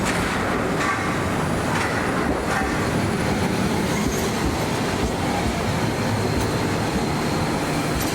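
A train running on rails: a steady rumble with a few clicks from the wheels in the first few seconds.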